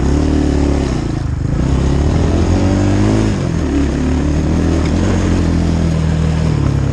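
Dirt bike engine running under way, its pitch rising and falling a little with the throttle.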